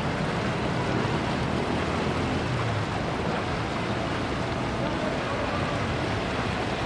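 Steady rushing of the Kabul River running high and fast in flood after heavy rain.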